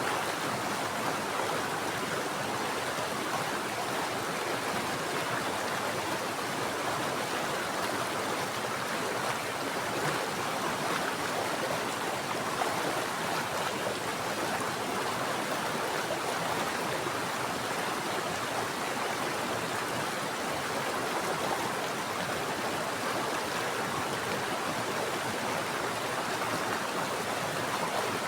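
Mountain stream's running water, a steady rushing flow with no breaks.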